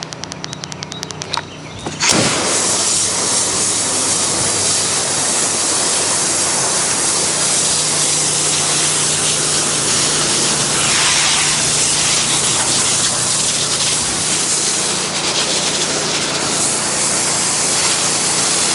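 Pressure washer spraying water onto a wooden deck at low pressure: a loud steady hiss that cuts in about two seconds in, over the steady drone of the washer's running motor. A rapid run of ticks comes before the spray starts.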